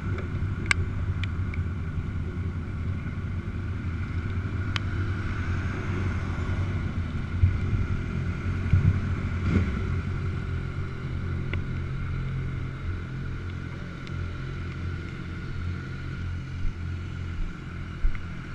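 A vehicle engine running steadily at an even pitch, with a few sharp clicks over it.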